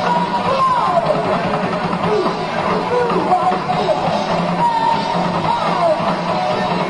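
Heavy metal band playing live: loud, dense rock music with sliding melody notes over a steady full-band backing.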